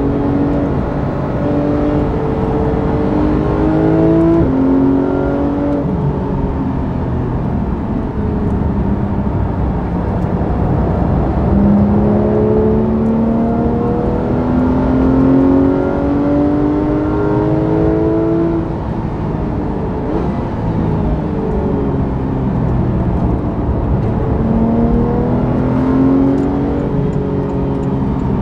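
Porsche 991 GT3's naturally aspirated flat-six heard from inside the cabin at track pace. The engine note climbs in long pulls under hard acceleration and drops back between them as the car shifts or lifts, over a constant bed of road and wind noise.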